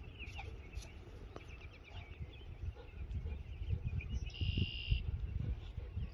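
Birds chirping outdoors over a low rumbling noise that grows louder, with a brief higher-pitched sound about four seconds in.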